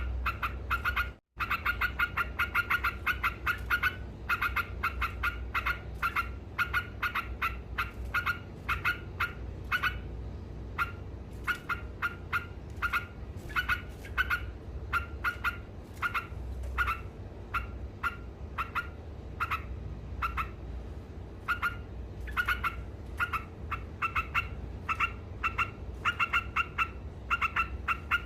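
Yellow-vented bulbul (trucukan) chattering in a fast, continuous run of short notes, several a second, with a momentary break just over a second in. A steady low hum sits underneath.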